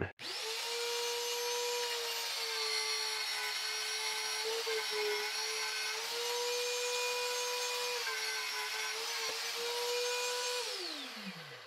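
Vevor 8840 1300 W magnetic drill press motor starting up and running with a steady tone while it drills a hole through aluminum bar. Its pitch sags slightly twice under the load of the cut. Near the end it is switched off and winds down with a falling pitch.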